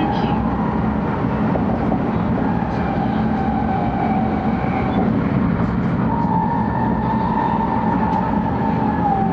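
Interior running noise of a 700 series Shinkansen car at speed: a steady rumble and hiss from the wheels and rails, with a held whine that wavers slightly in pitch.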